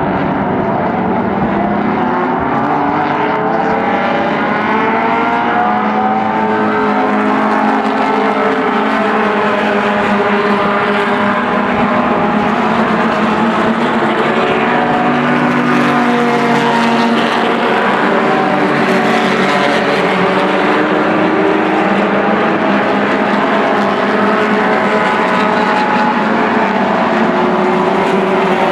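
A pack of small-displacement vintage sports cars and sedans racing through a series of corners, several engine notes overlapping, each rising and falling as the cars brake, shift and accelerate.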